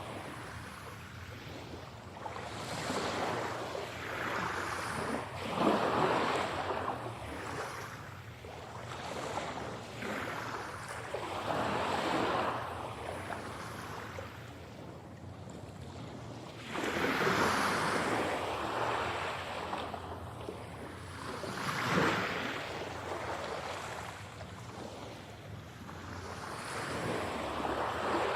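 Ocean waves breaking and washing up the shore, surging and falling back every few seconds, with no music or voice. The recording is processed as 8D audio, panned around the listener.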